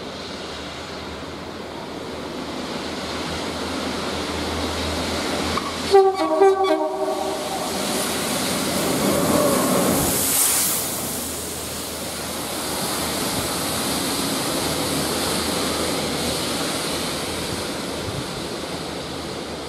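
Network Rail Windhoff MPV approaching with a diesel engine drone. It sounds a couple of short horn blasts about six seconds in, then passes close with a rush of wheel and engine noise around ten seconds and rumbles away.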